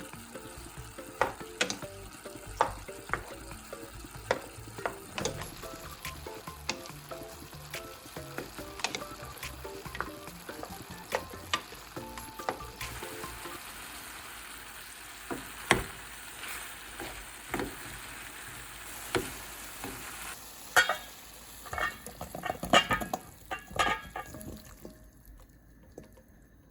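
Food sizzling as it fries in a pan, stirred with a utensil that knocks and scrapes against the pan again and again; the sizzle fades near the end.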